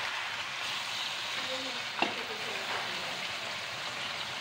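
Chicken pieces sizzling in a hot wok as a wooden spatula stirs them, with a sharp knock of the spatula against the pan about two seconds in.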